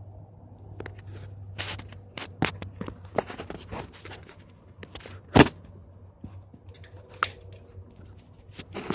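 A string of irregular clicks, knocks and scrapes over a low steady hum, with one sharp knock standing out about five seconds in.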